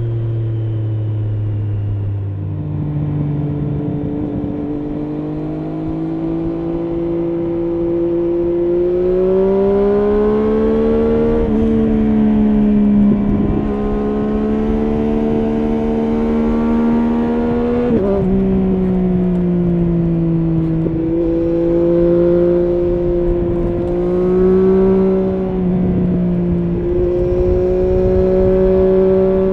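Triumph Street Triple S inline three-cylinder engine through an SC-Project SC1-R slip-on exhaust with its dB-killer fitted, heard from the rider on the move. The engine note climbs and drops with the throttle, with several sudden pitch jumps at gear changes over wind and road noise.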